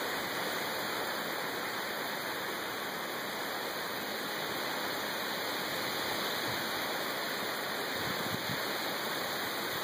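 Thunderstorm rain and wind making a steady, even hiss that neither swells nor breaks.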